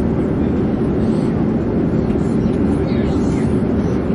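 Steady low drone of an airplane in flight, an even rumble of engine and airflow that does not change.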